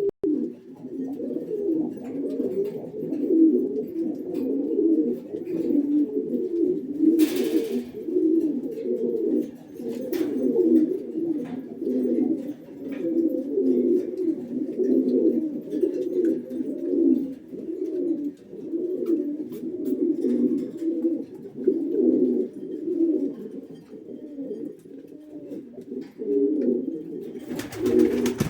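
Domestic pigeons cooing steadily, the low coos running into one another without a break. A short burst of noise cuts in about seven seconds in, and another comes near the end.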